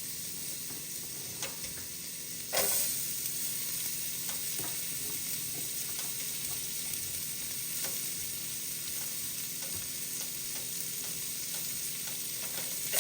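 Onions sautéing in butter in a pot: a steady sizzle with a few faint clicks. About two and a half seconds in, the sizzle suddenly grows louder, then holds steady.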